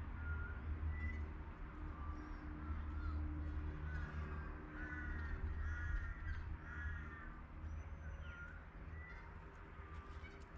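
Birds calling outdoors: short whistled notes scattered throughout, and a run of harsher, rasping calls about four to seven seconds in. A steady low rumble runs underneath.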